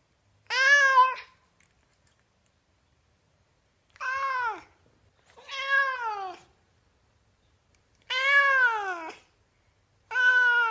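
Domestic cat meowing five times, with pauses of one to three seconds between. Each meow is a clear pitched call of about half a second to a second that falls in pitch at its end.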